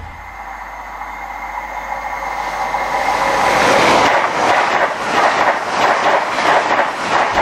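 LNER express train approaching at speed, growing steadily louder with a thin ringing tone from the rails. About four seconds in it passes close by with a loud rush of wheels and air, its wheels beating out about two clacks a second.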